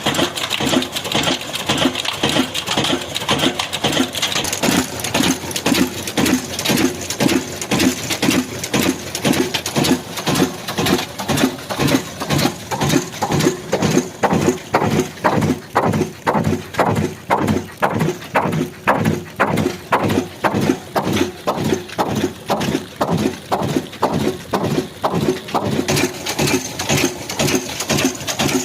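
Old black single-cylinder diesel engine running with a slow, regular beat, about two to three firing strokes a second.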